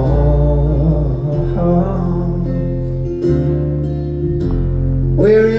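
Live acoustic band music: acoustic guitar strumming over a low bass line, with a sustained sung voice.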